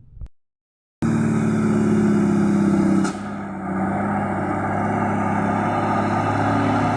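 After a moment of silence, a heavy truck's diesel engine runs loudly with a steady low drone. About two seconds in it dips in level and pitch, then picks up again and holds steady.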